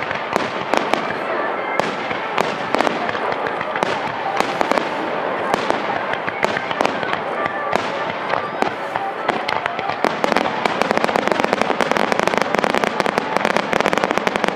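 Fireworks display: aerial shells bursting one after another, with many sharp bangs and crackles. From about ten seconds in the bursts come thicker and faster and a little louder.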